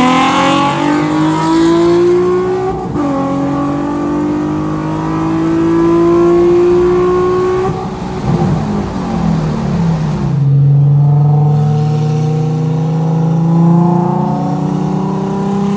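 Nissan 350Z HR's 3.5-litre V6 at full throttle heard from inside the cabin in a roll race: the engine note climbs, drops at an upshift about three seconds in, and climbs again until the driver lifts off near eight seconds, the revs falling away. After that a steady, lower engine note as the car cruises.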